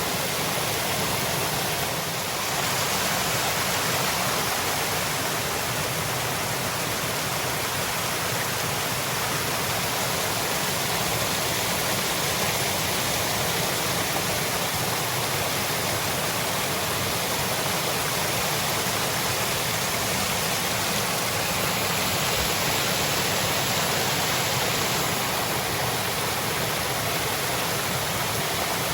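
Waterfall: water falling and rushing as a steady, unbroken hiss.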